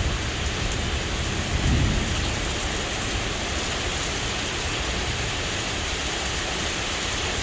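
Heavy rain pouring down steadily, with a brief low rumble of thunder near the start.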